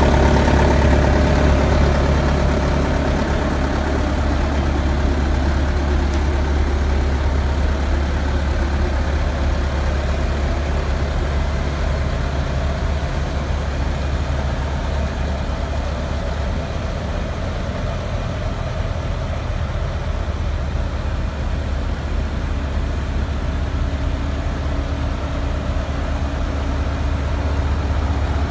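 Diesel engine of a Bobcat A300 skid steer running steadily with a deep hum, a little louder at the start and again near the end.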